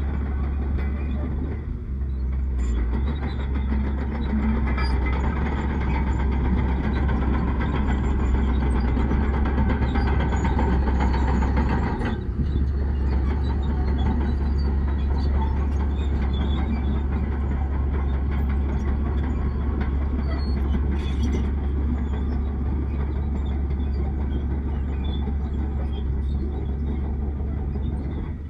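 Heavy diesel earthmoving machinery, a bulldozer working soil, running steadily with a strong low hum. There are brief dips about two and twelve seconds in.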